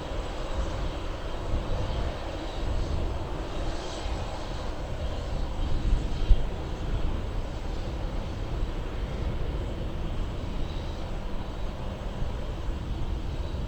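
Steady aircraft engine noise over a low rumble, with no single loud event.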